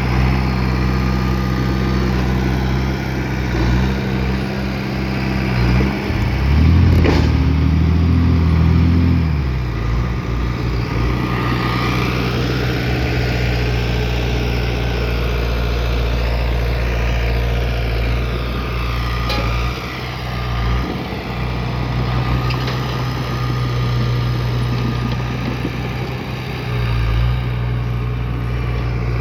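Bulldozer's heavy diesel engine running steadily, louder and higher in pitch for a few seconds about seven seconds in.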